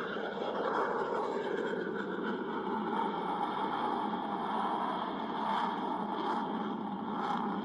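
Jet noise from an F-22 Raptor's twin Pratt & Whitney F119 turbofans, a steady rushing sound that swells in the first second and then holds.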